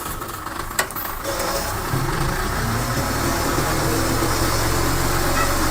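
Heavy diesel engine of a bulldozer or dump truck running, growing louder about a second in and then holding steady. A sharp click comes just before it.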